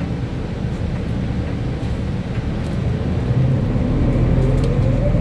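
Interior rumble of a Gillig CNG city bus in motion. Its engine and drivetrain run steadily, then about three and a half seconds in a rising whine builds as the bus accelerates.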